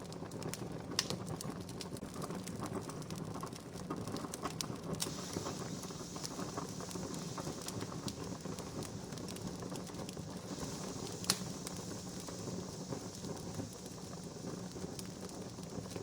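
Wood campfire crackling: a steady hiss and rustle with scattered small pops, and two sharper pops about a second in and at about eleven seconds.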